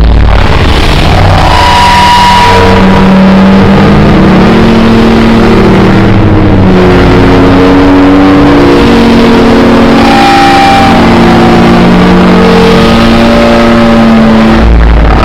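Very loud, harsh distorted noise with several held tones that shift in pitch every second or so.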